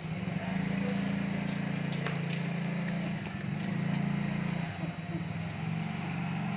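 An engine running steadily, a low even hum that dips briefly twice.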